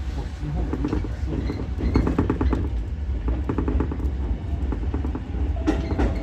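Ichibata Electric Railway 7000-series electric railcar running along the track, heard from inside the car: a steady low rumble with clusters of wheel clicks over rail joints. A steady tone comes in near the end.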